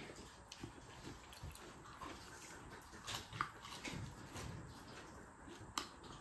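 Faint chewing and wet mouth sounds of someone eating rice and leafy greens with their fingers, with scattered small clicks and two sharper clicks, one about three and a half seconds in and one near the end.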